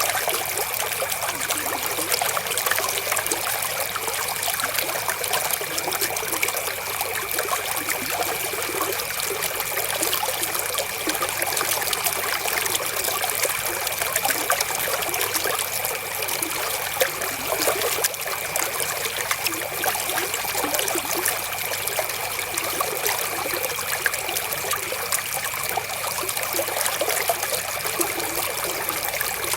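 River water flowing and trickling steadily, a dense patter of small splashes.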